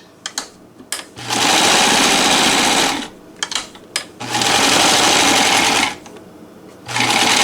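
NELCO L400 rod-driven zigzag sewing machine stitching a zigzag through denim, running in three short bursts with quiet pauses between them, with a few sharp clicks in the pauses.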